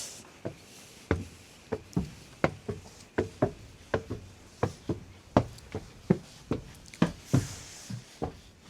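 Footsteps going up steps, a sharp knock with each tread at about two a second.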